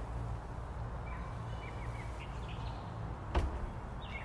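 Birds chirping in short, falling chirps over a steady low rumble, with a single knock about three and a half seconds in.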